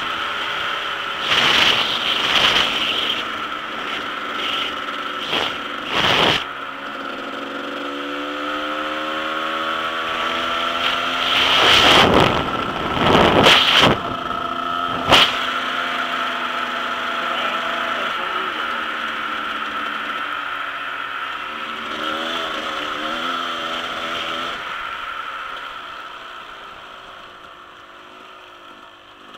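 Dirt bike engine running while riding, its pitch rising and falling with the throttle, with several loud short bursts of noise in the first half; the sound fades over the last few seconds.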